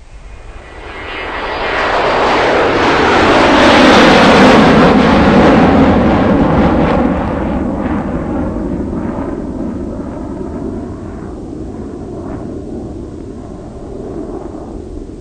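Aircraft flying overhead: a noisy engine sound swells to its loudest about four seconds in while its pitch drops, then fades slowly as it moves away.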